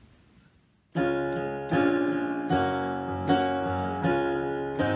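Piano playing the introduction to a hymn: struck chords held and changing about every three-quarters of a second, starting after a near-silent first second.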